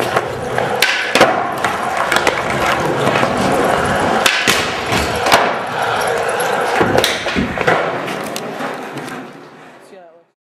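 Skateboard rolling on a hard floor with a string of sharp clacks and landing knocks from the board, fading away near the end.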